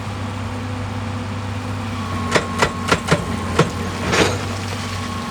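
Excavator engine running steadily, with a quick run of about six sharp knocks starting a little over two seconds in.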